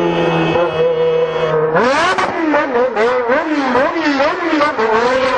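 Yamaha XJ6 inline-four motorcycle engine through an open exhaust pipe, loud: its note falls steadily as the throttle is closed. About two seconds in the rider starts blipping the throttle, quick revs rising and falling about twice a second.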